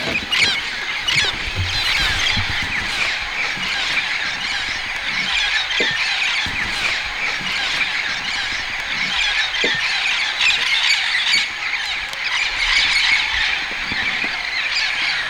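A dense, continuous chorus of many birds calling at once, overlapping chirps and squawks with no single call standing out.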